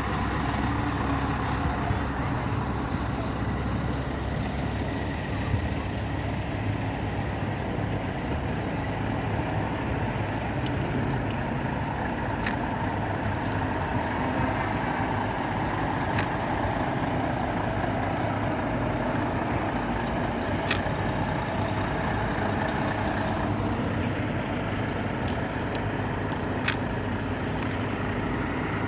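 Scania T-cab truck's diesel engine running steadily, with a few faint clicks.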